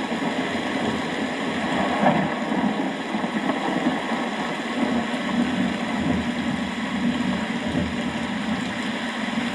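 Steady rainfall, an even wash of noise without a break, with a slight swell about two seconds in.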